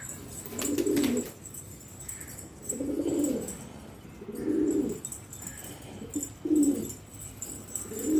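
Domestic pigeons cooing, low repeated coos about every one and a half to two seconds.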